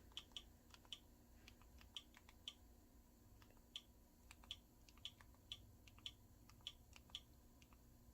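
Faint, irregular clicks, about one or two a second, of a Fire TV Stick's menus being scrolled with the remote.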